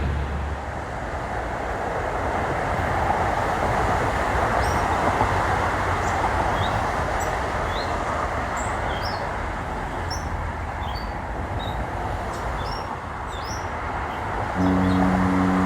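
Steady rumbling outdoor noise, with small birds chirping repeatedly over it. About a second before the end, a steady engine hum starts.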